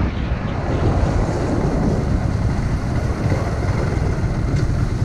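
Wind buffeting the microphone on a moving motorcycle: a steady low rumble with a hiss above it.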